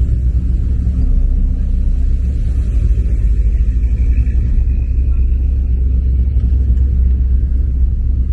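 A motor vehicle engine idling: a steady, low rumble with no change in speed.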